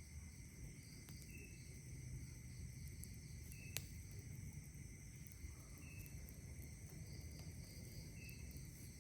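Steady chorus of night insects, crickets among them, with a short high chirp repeating every two to three seconds. Over it, a few sharp pops from a campfire, the loudest a little under four seconds in, and a low rustle underneath.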